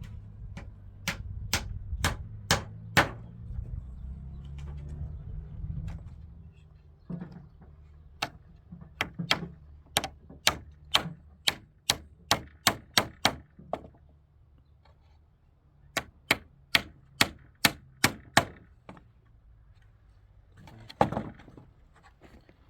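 Hammer blows, sharp strikes about two a second, coming in several runs with pauses between. A low steady hum sits under the first few seconds.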